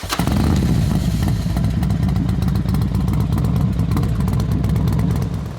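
Motorcycle engine running steadily with a low, pulsing note.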